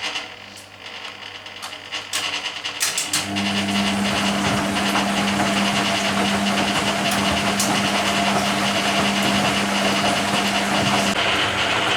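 A few clicks, then about three seconds in the drain pump of a 1980 Hoover Keymatic A3112 washing machine starts and runs with a steady hum over rushing water, pumping out the first-rinse water.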